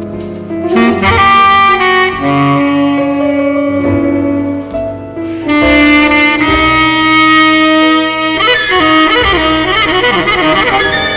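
Tenor saxophone playing a jazz melody: long held notes, then from about eight seconds in a quick, wavering run of notes.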